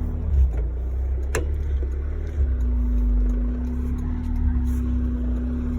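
Honda S2000's 2.2-litre four-cylinder engine idling steadily, with one sharp click about a second and a half in.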